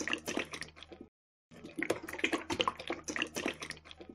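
Wet cement mix pouring from a small bucket and plopping onto a miniature form, a run of wet splats, drips and squelches. The sound drops out briefly just after a second in, then resumes.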